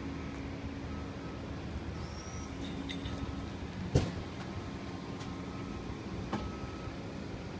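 CAT C15 diesel engine of a dump truck idling steadily. A sharp knock about four seconds in and a lighter one about two seconds later.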